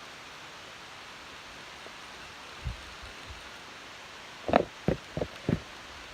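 Steady outdoor hiss, with a faint low thump near the middle and four quick knocks in a row about four and a half seconds in.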